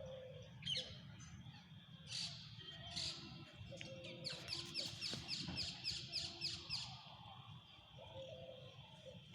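Bird calling: a few separate high chirps, then about four seconds in a rapid run of about a dozen quick falling chirps, over a low steady hum.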